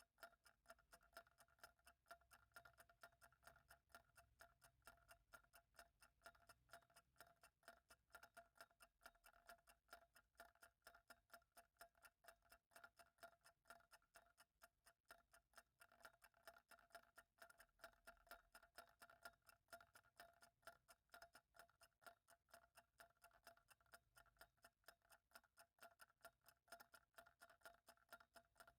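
Faint, steady ticking of a clock, evenly spaced.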